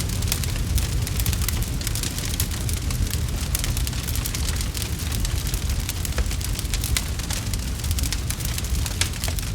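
Wood fire crackling, with a steady stream of sharp pops and snaps over a deep, constant rumble.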